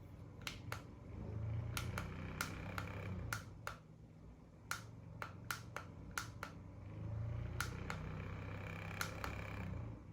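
Mini USB fan being handled: a dozen or so sharp plastic clicks and taps, over a low motor hum that swells twice and fades out at the end.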